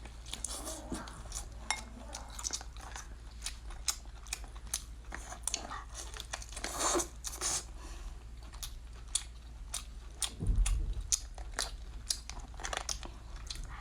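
A person chewing and crunching a spicy shrimp tail, with many short, sharp crunches. There is a dull low bump about ten seconds in.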